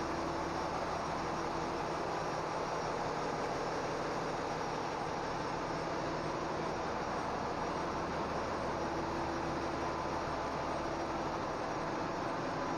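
Steady machinery noise in a large crude oil tanker's engine room: an even rushing din with a few faint steady hums underneath.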